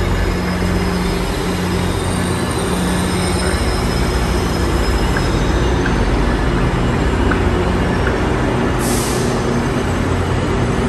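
Steady low rumble and hum of GO Transit commuter trains standing at the platform under the trainshed, with a short hiss of air about nine seconds in.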